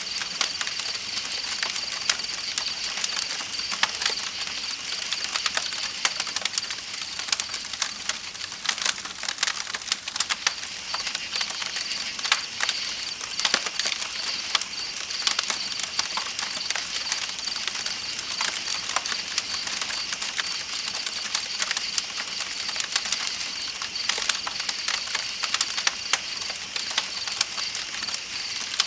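Campfire crackling with frequent sharp pops, over a steady rush of flowing river water and a continuous high chirring of night insects.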